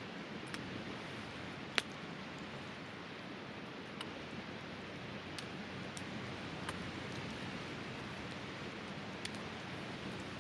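Wood campfire crackling, with scattered sharp pops, the loudest a little under two seconds in, over the steady rushing of a river close by.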